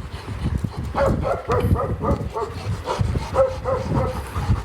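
Dog whining and yipping in a run of short, pitched cries, about three or four a second.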